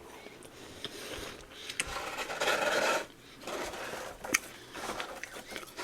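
Soft freezer frost scraped and crunched by hand in rough, rasping strokes. The longest and loudest comes about two seconds in, with a single sharp click a little after the middle.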